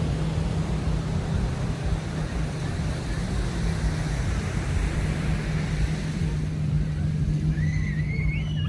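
Street traffic: motor vehicle engines running with a steady low hum under a wash of road noise. A high gliding call that rises and falls starts near the end.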